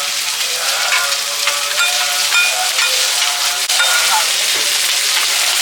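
Seafood omelette sizzling in hot oil in a pan, with a metal spatula scraping and clicking against the pan.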